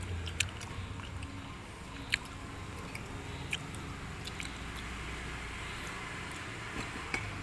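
People eating and chewing, with a few sharp clicks and crunches scattered through, the loudest about two seconds in.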